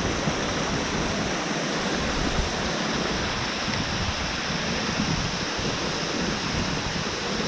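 Powerful waterfall: a steady, dense rush of falling water.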